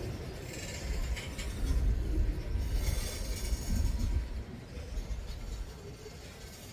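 Freight train cars rolling past on the rails: a low rumble with clicking wheels, loudest in the middle and fading toward the end.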